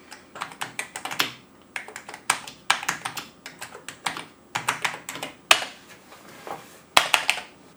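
Keys of an Amiga keyboard with newly fitted keycaps being pressed and typed on: irregular plastic clicks and clacks, some in quick runs.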